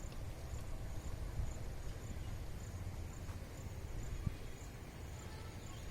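An insect, likely a cricket, chirping steadily in short high pulses about two or three times a second, over a constant low rumble.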